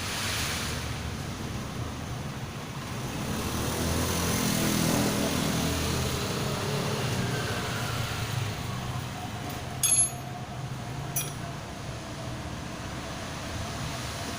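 A motor vehicle engine swelling up and fading away over a steady background hum, with two short metallic clinks about two thirds of the way through.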